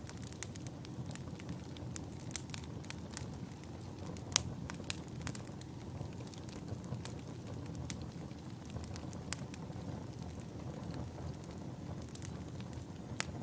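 Wood fire burning in a fireplace: a steady low rush of flames with irregular sharp crackles and pops, one louder pop about four seconds in.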